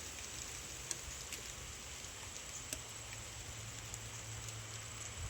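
Light rain falling: a steady soft hiss with scattered drops ticking now and then, and a faint low hum beneath it.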